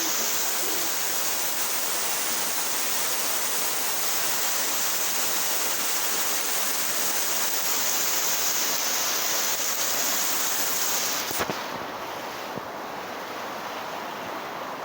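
Heavy rain pouring down in a steady downpour. About eleven seconds in a sharp click cuts in, and after it the rain sounds quieter and duller.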